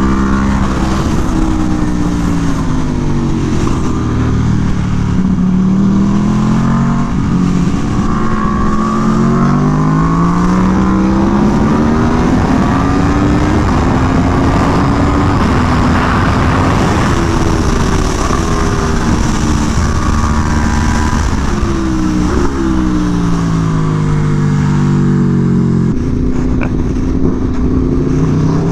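Aprilia Tuono V4 1100 Factory's V4 engine, through an SC Project CR-T exhaust, accelerating and braking around a racetrack: engine pitch climbs, drops in quick steps at gear changes and falls away into corners, again and again, under heavy wind noise.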